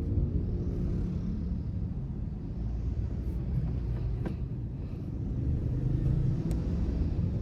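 A car being driven: steady low engine and road rumble, easing a little mid-way and building again, with a faint click about four seconds in.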